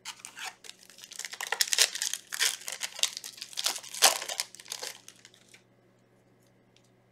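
Crinkling and tearing of a Yu-Gi-Oh booster pack's wrapper as it is opened. It is a dense run of crackles that stops after about five and a half seconds.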